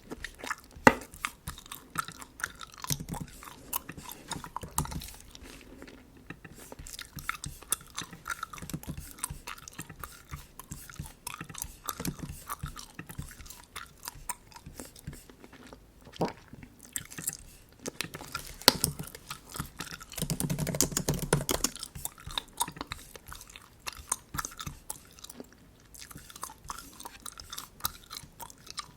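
Bubble gum being chewed close to the microphone: a run of irregular mouth smacks and clicks, with a louder, denser stretch about two-thirds of the way through.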